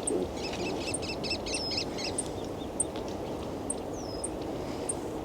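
Small birds calling outdoors: thin, very high short notes repeated every half second or so, a few downward-slurred whistles, and a quick cluster of rapid notes in the first couple of seconds, over a steady low background rumble.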